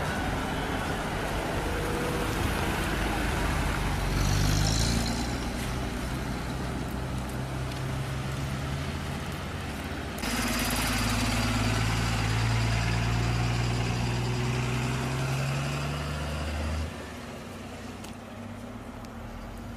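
Road vehicle engine and road noise, steady. The sound changes abruptly twice: louder about halfway through, then quieter near the end.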